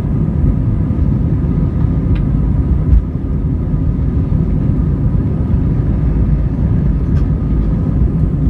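Airliner jet engines running steadily with a deep rumble and a faint steady whine, as heard by a passenger during take-off; a single thump about three seconds in.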